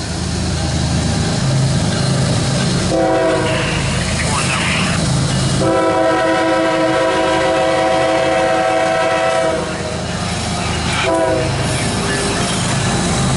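CSX freight locomotive's air horn sounding over the low rumble of a loaded coal train. A short blast comes about three seconds in, a long blast runs from about six to ten seconds, and another short blast comes about eleven seconds in.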